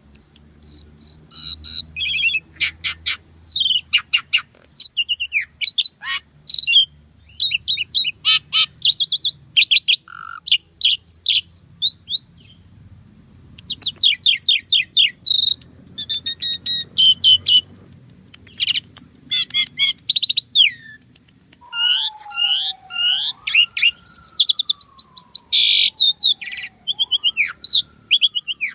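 Asian pied starling (jalak suren) in full song: a fast, unbroken run of varied chattering notes, rattles and sharp whistles. In the last quarter a long, smooth whistle slides slowly up and down beneath the chatter.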